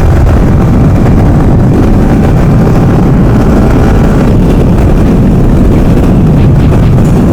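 Steady, loud rush of wind and road noise over a motorcycle's running engine while riding along a road.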